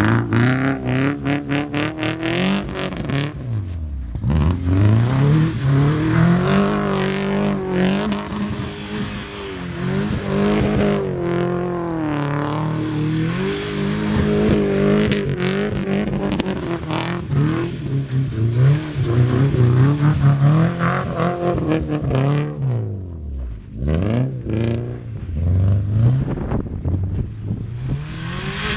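Subaru flat-four boxer engine and exhaust revving up and down again and again under hard throttle, with the revs falling away briefly about four seconds in and again after about twenty-three seconds.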